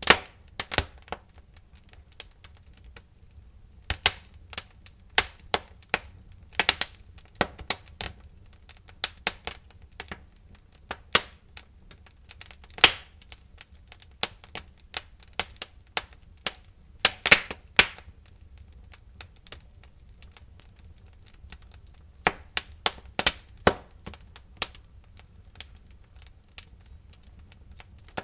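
Wood fire crackling in a fireplace: irregular sharp pops and snaps, sometimes several in quick succession, with a few quieter gaps between clusters.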